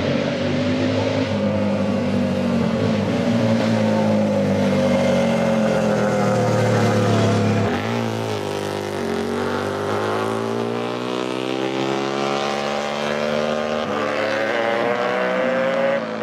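Vintage pre-1980 motorcycle engine running; its note drops sharply about halfway through, then climbs steadily again as it picks up revs.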